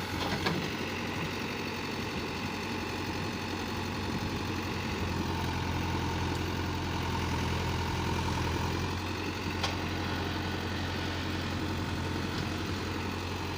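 Heavy diesel engine running steadily at low revs, with a couple of brief clicks.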